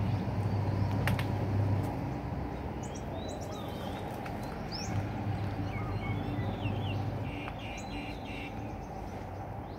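Birds chirping and calling in short scattered notes, with a quick run of repeated notes near the end, over a steady low hum.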